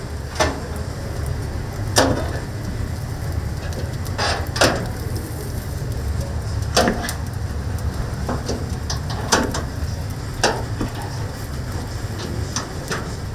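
Steady low rumble with sharp knocks and clacks every second or two, the kind made by work with wood, metal or utensils.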